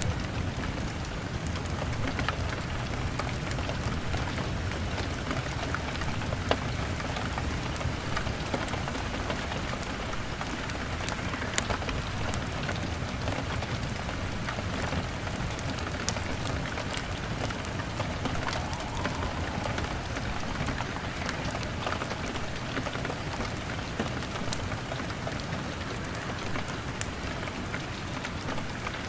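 Steady rain on window glass mixed with a crackling fire: an even rushing hiss of rain with frequent small, sharp ticks and pops scattered through it.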